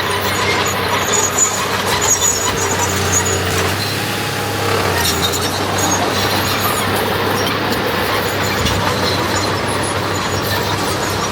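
Heavy diesel earthmoving machinery running steadily, with short high squeals during the first few seconds.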